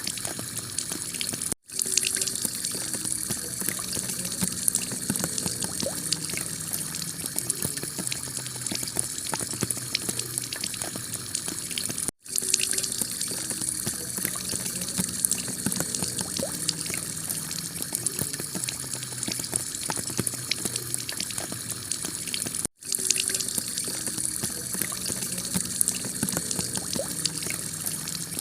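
Heavy rain falling steadily on a clay tile roof, a dense patter of drops. The sound cuts out for a split second three times, about ten seconds apart, where the recording loops.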